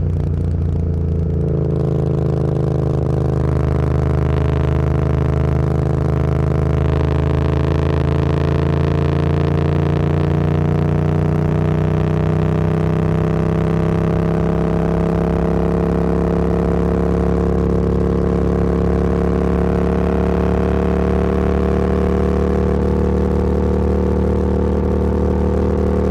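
Motorcycle engine and exhaust pulling steadily in one gear, its pitch climbing slowly as the bike gathers speed. Wind and road rush build in about two seconds in.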